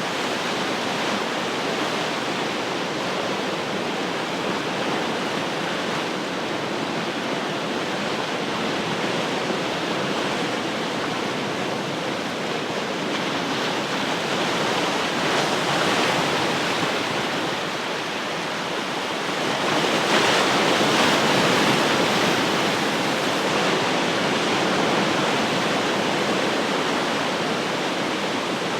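Ocean surf: a steady wash of breaking waves, swelling louder a little past halfway as a bigger wave breaks and washes in.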